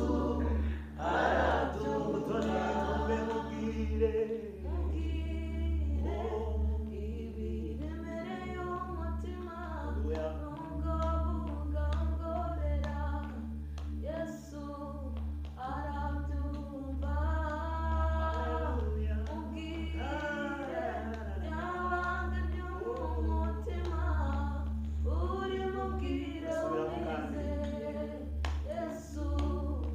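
A group of voices singing together, choir-style, over a steady low hum.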